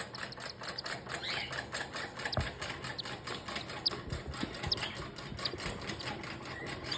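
Newly hatched cockatiel chicks peeping faintly over a rapid, even ticking pulse of about six or seven beats a second.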